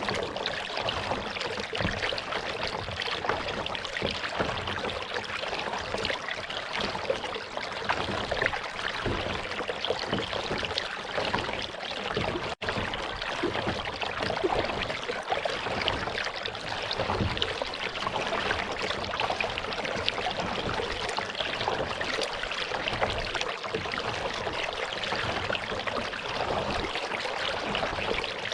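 Water trickling and lapping steadily around a kayak as it is paddled.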